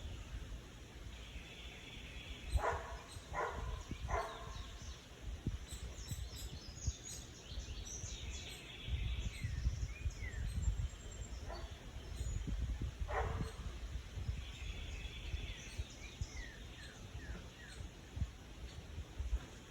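Small birds chirping in short, quick falling notes, with a few short sharp calls: three close together about three seconds in and more later on. A low rumble of wind or outdoor noise runs underneath.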